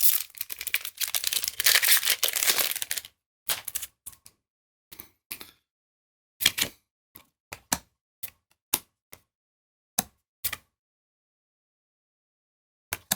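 A booster pack's foil wrapper crinkling and rustling for about three seconds. Then Magic: The Gathering cards are handled one at a time, each giving a sharp click or snap, about a dozen at irregular intervals.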